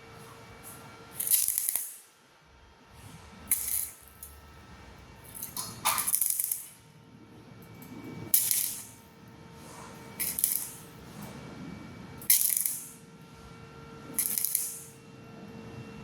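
Stick-welding arc on thin galvanized steel square tube, struck in short bursts: seven crackling, hissing arcs of about half a second each, roughly every two seconds. This is a stop-start stitch technique that keeps heat down so the thin wall does not burn through.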